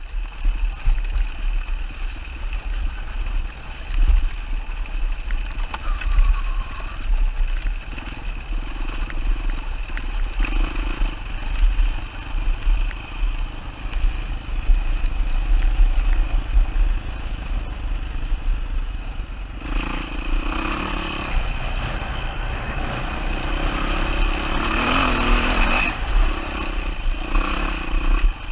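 A 2007 Yamaha WR450F's single-cylinder four-stroke engine running as the dirt bike rides a rocky mountain trail, with a heavy low rumble throughout. The engine note rises and falls, with louder surges of throttle about two-thirds of the way in and again shortly after.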